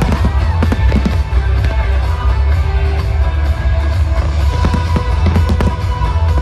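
Loud music with a heavy bass line, with firework shells bursting and crackling over it; clusters of bangs come in the first second and again about five seconds in.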